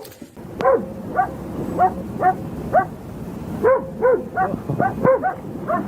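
A dog giving a quick run of short, high yips, about three a second. Each yip rises and falls in pitch.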